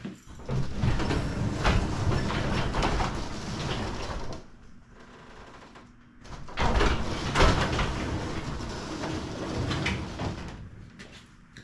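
Sectional garage door rolling along its tracks, rumbling and clattering in two runs of about four seconds each with a short pause between.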